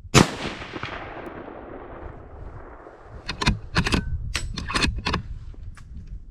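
A single .30-06 rifle shot, one sharp loud blast whose echo rolls off over about three seconds. A quick series of sharp metallic clicks and knocks follows about three seconds in.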